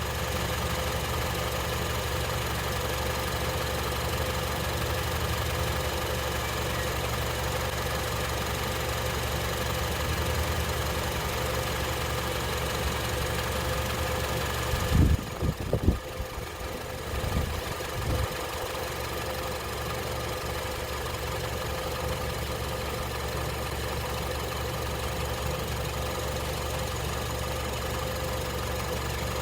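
Honda CR-V engine idling steadily while air is burped out of the freshly refilled cooling system. About halfway through, a few short low thumps break in, then the steady idle carries on.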